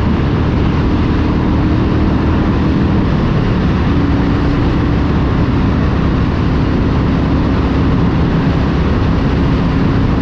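Motorcycle engine running steadily at cruising speed, with wind and road noise; its note shifts slightly about four seconds in.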